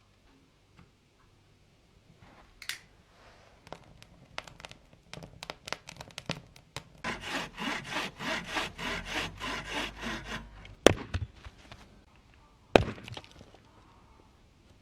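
Rhythmic rasping strokes, about four a second for a few seconds, followed by two sharp knocks, the loudest sounds here.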